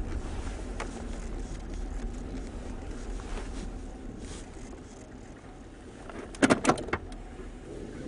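A truck's engine and road rumble heard from inside the cab, steady and gradually quieter. About six and a half seconds in comes a quick cluster of sharp clicks and knocks, the loudest sound here.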